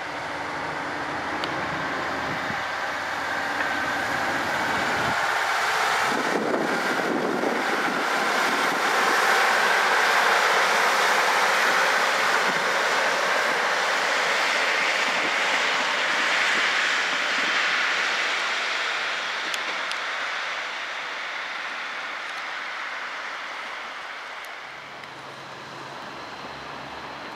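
Two-car Northern Rail diesel multiple unit running past along the platform. Its engines and wheels on the rails grow louder to a peak about a third of the way in, then fade away over the last several seconds.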